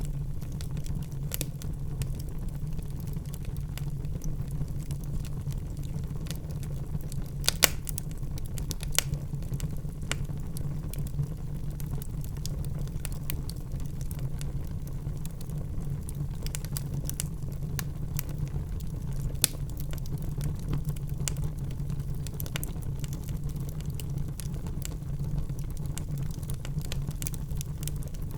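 Wood fire burning in a fireplace: a steady low rumble of the flames with irregular sharp crackles and pops from the logs, a few louder snaps about eight seconds in and again near twenty seconds.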